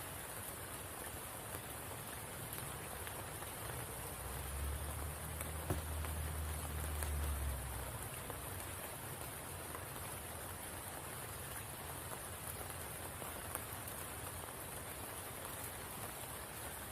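Steady rain falling on a spring pool and its surroundings, an even patter with a constant high hiss. A low rumble swells for a few seconds a little after the start and fades.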